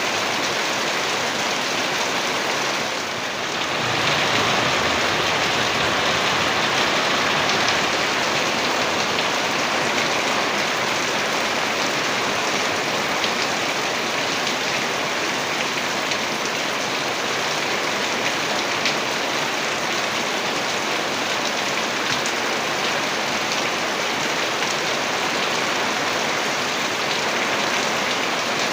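Heavy rain falling steadily, a dense even hiss of many drops, dipping briefly about three seconds in.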